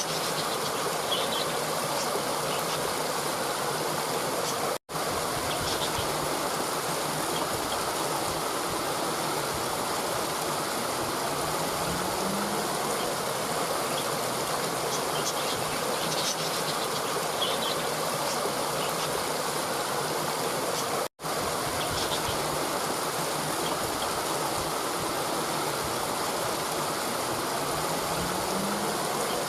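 Steady rush of flowing water, like a stream, with faint high chirps above it. The recording cuts out for an instant twice, about sixteen seconds apart, where a looped track restarts.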